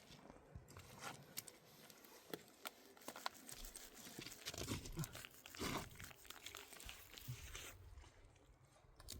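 Faint rustling and crinkling with scattered small clicks and knocks.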